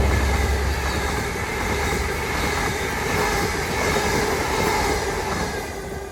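A train running on the rails: steady rail and wheel noise with several faint steady whining tones. It fades gradually toward the end.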